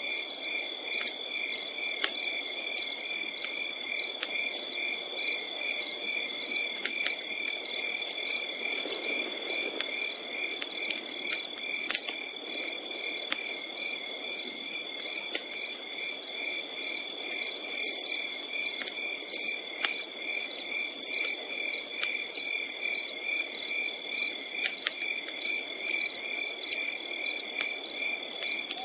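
Crickets chirping in a steady, rapid pulsing rhythm, over the sharp pops and crackles of a campfire.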